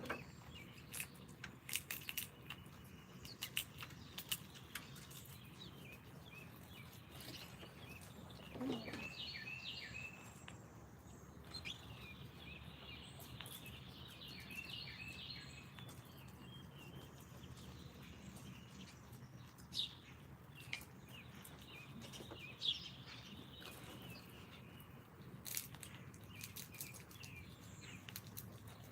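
Small songbirds chirping and singing in short repeated phrases, with scattered sharp clicks and taps over a steady low background hum.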